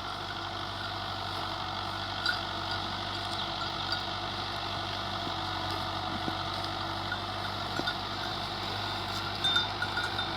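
Fiat 640 tractor's diesel engine running steadily under load while ploughing: a constant hum that holds the same pitch and level throughout.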